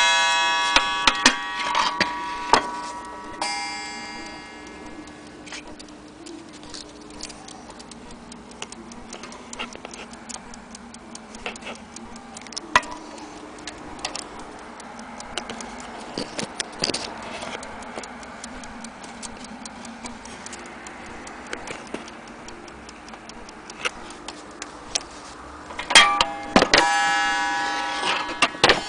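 French mantel clock's platform escapement ticking. A ringing bell strike from the clock dies away at the start, and the clock strikes again near the end, its tones fading.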